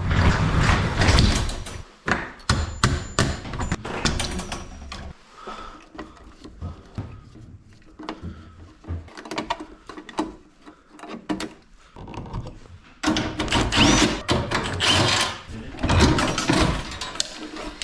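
Hands-on repair work with hand tools and hardware: a run of irregular clunks, clicks and knocks, with louder noisy stretches at the start and again near the end.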